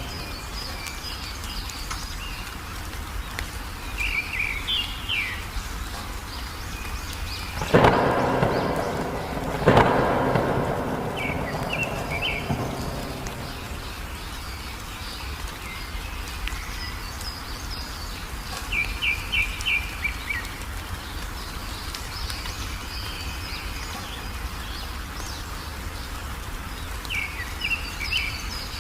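Steady rain with a songbird chirping in short phrases every few seconds, and two claps of thunder about eight and ten seconds in, each rumbling away over a few seconds.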